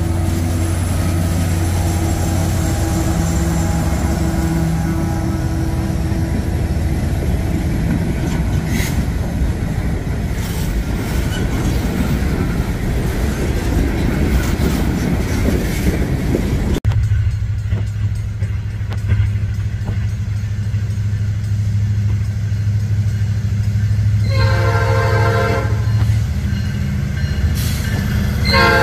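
Freight train rolling past, a steady rush of wheels on rail. After an abrupt cut, diesel locomotives rumble low and sound a multi-chime air horn for about two seconds near the end, with another horn blast starting just at the end.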